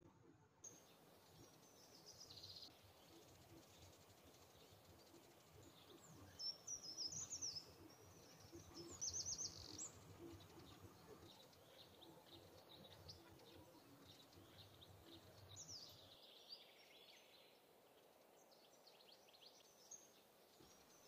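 Faint birdsong over low background noise: scattered bursts of quick, high chirps and trills, loudest about six to ten seconds in.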